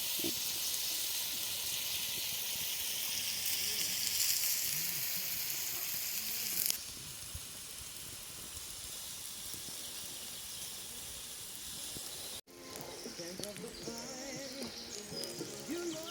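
Bacon and vegetables sizzling on a grill over a campfire, a steady frying hiss that drops suddenly in level about halfway through. After an abrupt cut near the end, birds chirping.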